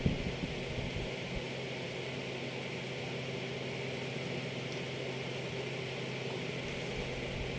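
Steady mechanical hum with a constant hiss, unchanging throughout, with a brief knock right at the start.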